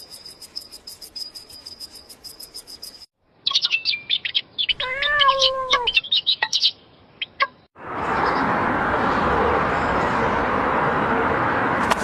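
A rapid high chirping trill, then quick high bird chirps with a short cat meow among them. The last few seconds hold a steady rushing noise.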